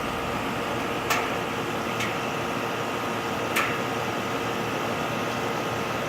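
Rheem 3-ton central air-conditioner condensing unit running steadily just after start-up, its compressor and condenser fan giving a steady hum with a few fixed tones. Three short sharp ticks come through, about one, two and three and a half seconds in.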